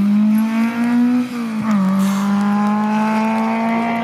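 Rally car engine revving hard as the car passes, its pitch rising. About a second and a half in, the revs dip briefly, then the engine pulls again, steady and high, as the car drives away.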